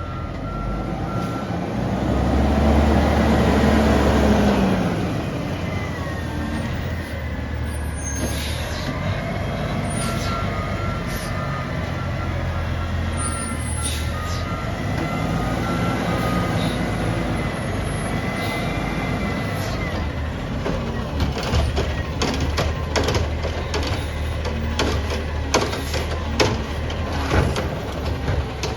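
Garbage truck engine revving up and settling back again and again while its hydraulics work, with reversing beeps at times and, in the last third, a rapid run of knocks and clatter.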